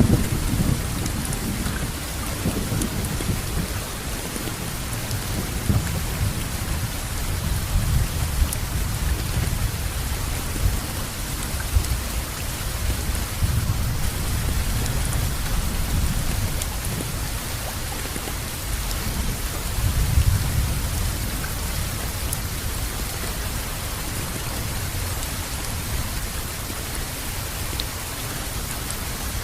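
Steady rainfall with low rumbling thunder underneath, the rumble swelling near the start and again about two-thirds of the way through.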